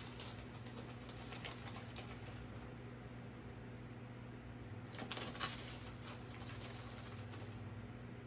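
Sugar being scooped and poured with a small measuring cup: soft scraping and grainy pouring noises, most noticeable about five seconds in, over a steady low hum.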